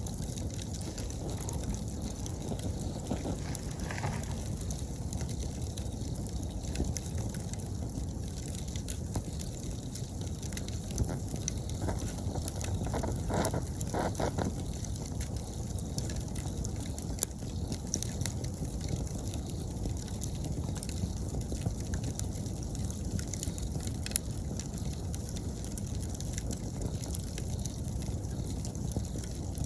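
Wood campfire burning with a steady low rush and a few sharp crackling pops, over faint steady chirping of autumn insects.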